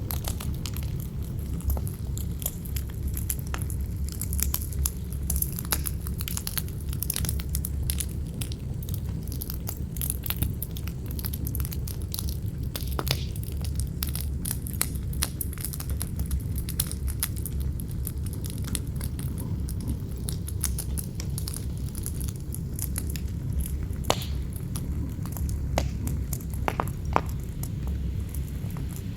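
Campfire crackling and popping, with irregular sharp snaps, a few louder ones scattered through, over a steady low rumble of wind.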